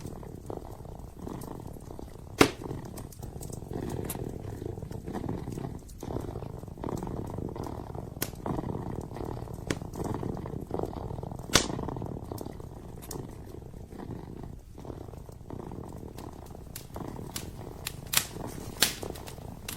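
Kitten purring steadily, with a wood fire in a fireplace giving sharp crackling pops now and then: a loud one about two seconds in, another near the middle, and two close together near the end.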